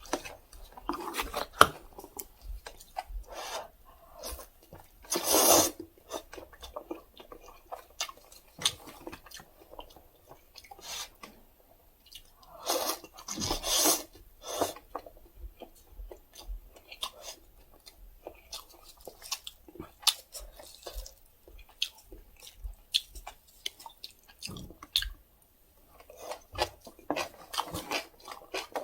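Close-miked eating of Jumbo Doshirak instant cup noodles: wet chewing with scattered mouth clicks, and two louder, longer slurps about five and thirteen seconds in.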